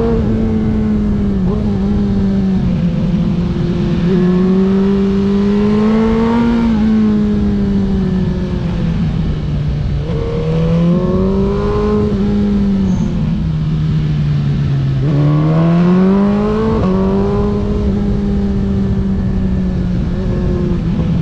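Race car engine heard onboard at speed, running hard. Its note climbs under acceleration and drops sharply about a second in and again later, with a deeper dip near the end before it climbs once more. A constant rumble of wind and road runs underneath.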